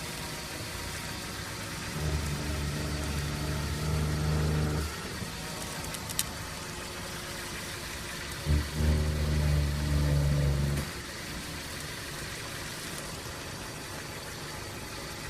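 2007 Dodge Caliber SXT making an unexplained low, steady-pitched droning hum that comes on twice for about three seconds at a time over the car's steady running sound, with a single sharp click in between.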